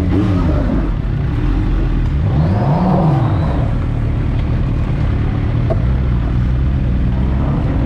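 Kawasaki H2's supercharged inline-four engine running under way; its revs rise and fall once about two to three seconds in, then hold steady.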